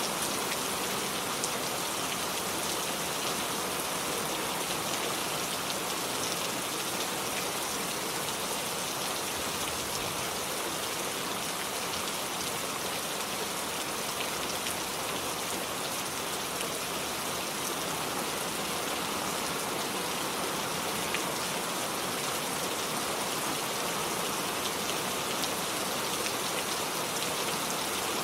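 Steady rainfall: an even hiss of rain pattering on surfaces, with a few faint drop ticks.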